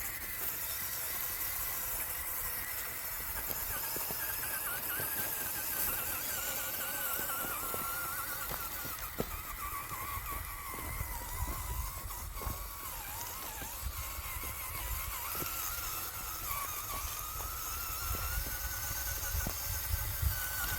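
CJ7 RC rock crawler's electric motor and gearing whining as it crawls. The whine wavers in pitch with the throttle, sinking lower through the middle and rising again near the end, over scattered small ticks and clicks.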